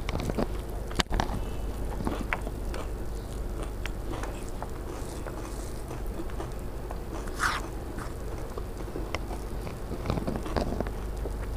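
Chewing puffed rice (muri) mixed with pea curry, with fingers scooping and scraping the mixture on a steel plate: scattered small crunches, clicks and crackles over a steady low hum, with a sharper click about a second in.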